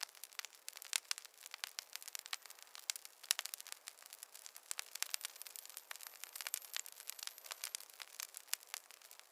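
Wood fire crackling: many irregular snaps and pops over a soft steady hiss.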